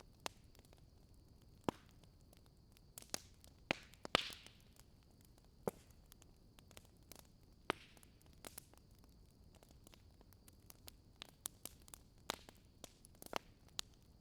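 Wood fire crackling: scattered sharp pops and snaps at irregular intervals over a faint hiss, with the loudest pop about four seconds in. A faint steady high whine runs underneath.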